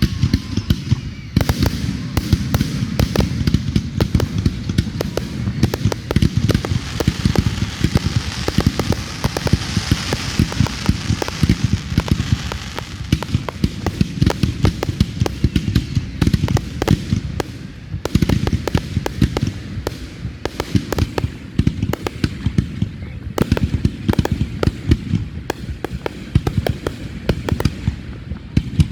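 Fireworks going off in rapid succession: a dense run of sharp crackling bangs, several a second, with a brief hissing rush about ten seconds in.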